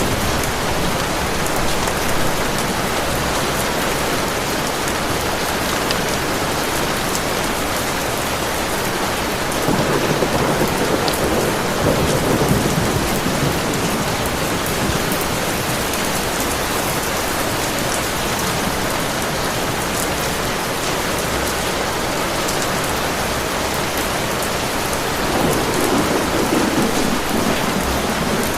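Heavy rain falling steadily, with low rumbles of distant thunder swelling twice, about ten seconds in and again near the end.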